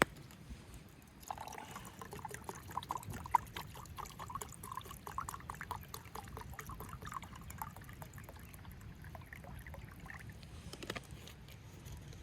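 A drink being poured from a bottle into a cup, a run of quick gurgles whose pitch creeps upward as the cup fills, stopping about three-quarters of the way through. A sharp click at the very start and another near the end.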